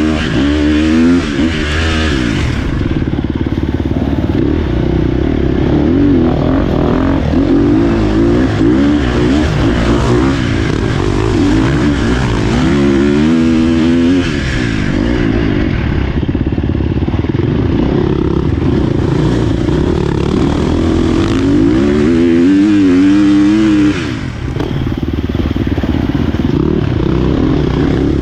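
Dirt bike engine running hard on a trail ride, its revs repeatedly rising and falling as the throttle is worked. The engine note dips briefly near the end.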